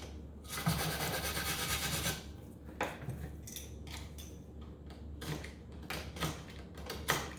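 A blade scraping a brittle glue layer off the end of a wooden piano keystick: a steady scrape for about two seconds, then scattered sharp clicks as small chips crack off.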